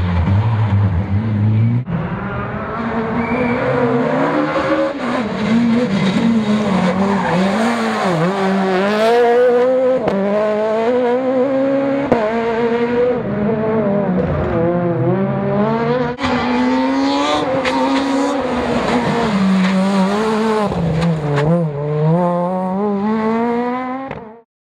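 Rally car engines revving hard, one car after another, the pitch climbing and dropping over and over with each gear change and lift off the throttle. The sound fades out near the end.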